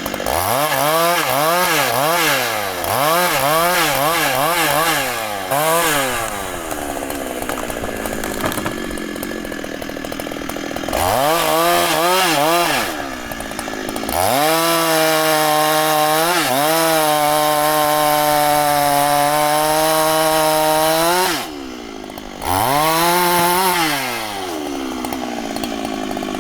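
Husqvarna two-stroke chainsaw revving between idle and high speed: a string of quick blips, then a long full-throttle run of about seven seconds that drops off suddenly, then one more short rev.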